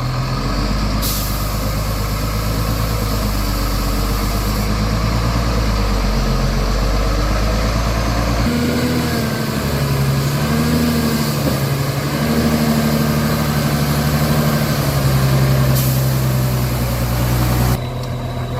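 Heavy truck's diesel engine running, its note shifting about halfway through and wavering up and down after that. Two long hisses sound over it, one starting about a second in and one near the end.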